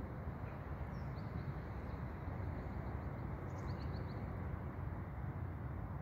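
Faint chirps of small birds: a couple about a second in and a quick run of four near the middle. Underneath is a steady low rumble of outdoor noise.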